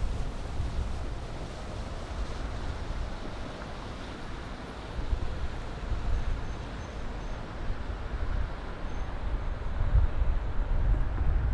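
Distant city traffic as a steady hum, with wind buffeting the microphone in low, gusty rumbles that grow stronger near the end.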